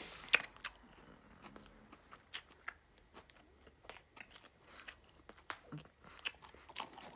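Close-miked mouth eating fried chicken strips: chewing with a run of short, wet smacking clicks, the sharpest about a third of a second in.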